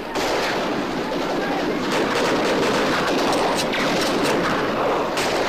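Sound-effects recording of a gun battle: dense, continuous gunfire with many overlapping shots.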